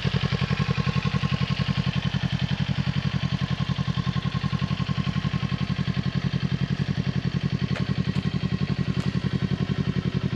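2021 Kawasaki Ninja 400 parallel-twin idling steadily through an Akrapovic carbon slip-on exhaust with its baffle in, as an even, rapid pulsing.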